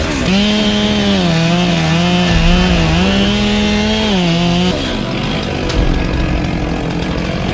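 Chainsaw run at high revs for about four and a half seconds, its pitch dipping and picking up again as it cuts into the wood, then released about five seconds in.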